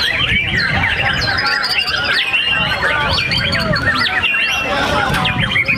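Several white-rumped shamas singing at once, a dense tangle of overlapping whistles and chirps, over a low rumble of wind on the microphone.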